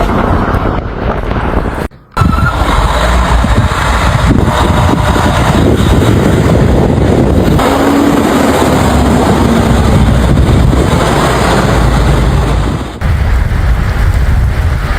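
Loud, steady vehicle noise, cut off briefly about two seconds in and changing abruptly near the end.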